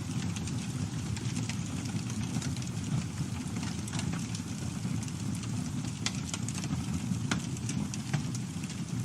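Campfire burning with a steady low rumble of flames and scattered sharp crackles and pops of burning wood, about one every second.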